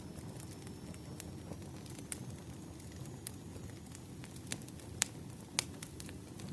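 Wood fire burning: a steady low rumble with scattered sharp crackles and pops, the two loudest about five seconds in, half a second apart.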